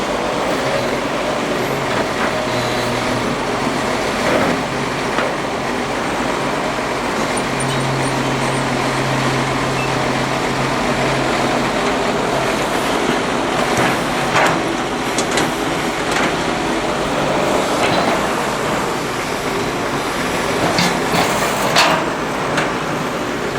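Excavator diesel engine running steadily, with a few short sharp knocks, a couple of them close together near the end.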